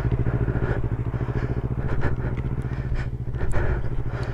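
Motorcycle engine running steadily at low revs, with a fast, even pulse.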